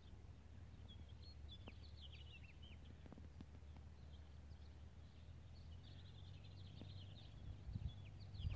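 Small birds chirping faintly in quick twittering runs, over a low steady rumble.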